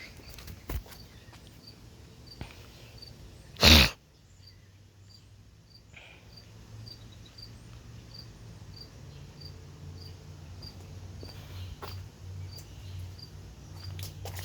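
Ceiling fan motor running at low speed, a low steady hum that grows stronger through the second half, with a faint high chirp repeating about every half second above it. A short, loud burst of noise about four seconds in, with a few light clicks before it.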